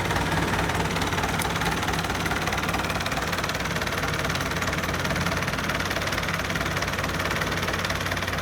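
Diesel engine of a Kubota DC-70 combine harvester running steadily as the machine drives up onto a ferry.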